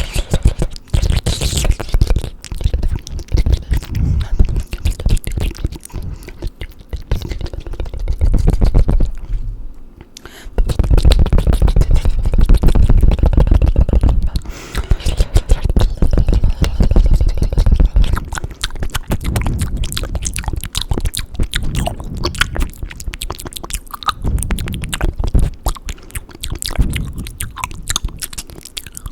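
Fast, wet mouth sounds close to the microphone: rapid tongue clicks, smacks and tongue fluttering in a dense, continuous stream, with a short lull about ten seconds in.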